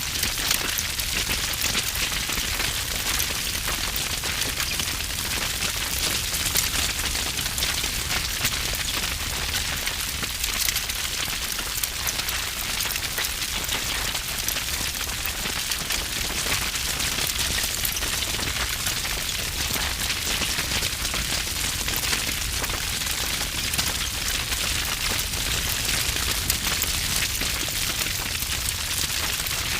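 Wood fire burning with heavy crackling: a dense, continuous stream of sharp pops and snaps over a low rumble of flame.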